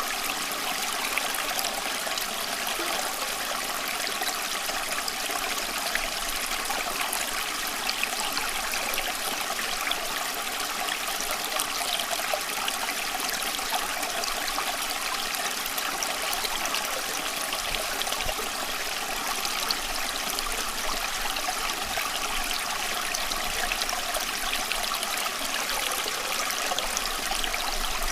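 Running water flowing steadily, a continuous trickling and bubbling like a stream, with no change in level.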